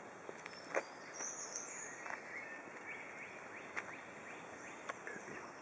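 Woodland ambience: a steady faint hiss with scattered short bird chirps and a few brief clicks.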